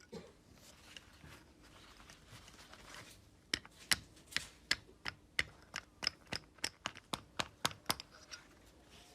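A quick run of sharp, light clicks or taps, about three a second, starting about three and a half seconds in and stopping shortly before the end.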